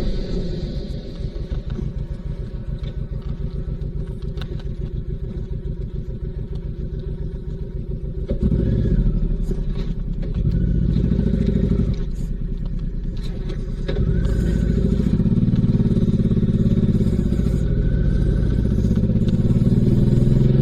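Honda VTX1800C's V-twin engine running at low speed with a steady pulse. The throttle opens a little over eight seconds in, eases back for about two seconds around twelve seconds, then opens again and holds.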